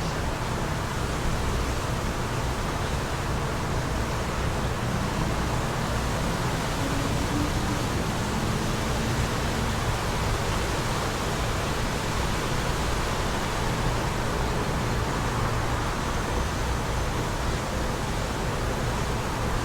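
Steady wind rushing, with a flickering low rumble of gusts on the microphone.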